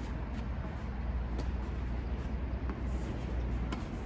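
A few sharp knocks of tennis balls struck by rackets during a rally, over a steady low rumble.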